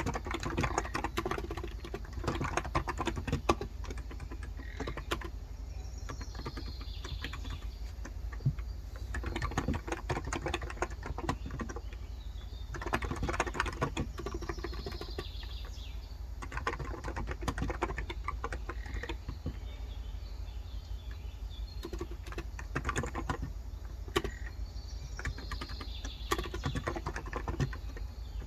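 Fast typing on a Cox Endeavour electro-capacitive (non-contact, 35 g) tenkeyless keyboard: dense runs of soft keystrokes with short pauses between them. Birds chirp faintly a few times in the background.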